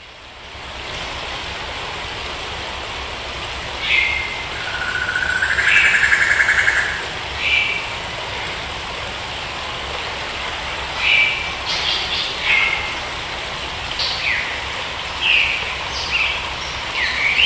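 Bird calls, a run of short falling chirps and one longer buzzy call, over a steady rushing noise that fades in at the start.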